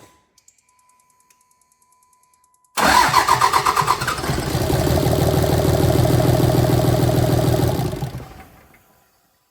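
Faint ticking, then a 5.9 L common-rail Cummins turbo-diesel cranks, fires about three seconds in, runs steadily for roughly five seconds and is shut off, winding down. It runs with the fuel lines to injectors 1 and 2 capped, which shows the crank-no-start fault lies in one of those two injectors.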